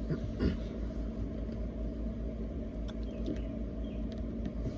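Steady low rumble of background noise, like a running vehicle heard from inside, with a faint brief murmur near the start.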